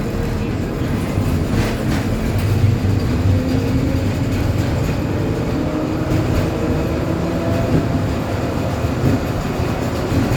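Tram running along its route, a steady rumble of wheels on rails with a faint motor whine that rises in pitch about halfway through.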